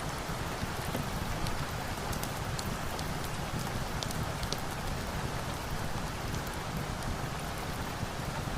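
Steady rain hissing, mixed with a crackling wood fire: scattered sharp pops and ticks over the even wash of the rain.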